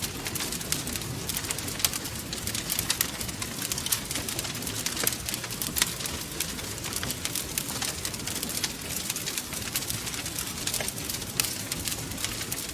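Wood fire crackling steadily in a fireplace: many sharp pops and snaps, several a second, over a constant low rumble of the flames.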